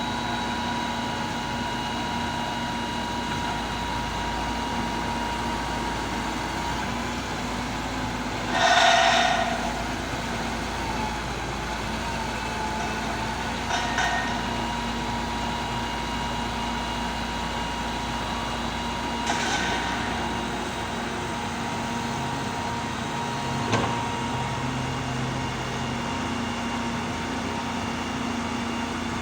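Heavy construction machinery, an excavator and auger piling rig at work, running with a steady engine and hydraulic hum. A few short hissing bursts cut through it, the loudest about nine seconds in.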